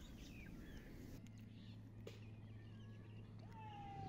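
Faint bird chirps and whistles, with one longer falling call near the end, over a steady low hum that starts about a second in.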